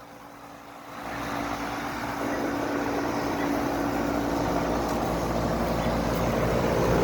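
Lennox Merit central air conditioner's outdoor condensing unit running: a steady mechanical hum from its compressor and fan with a held tone, getting louder about a second in and then staying even.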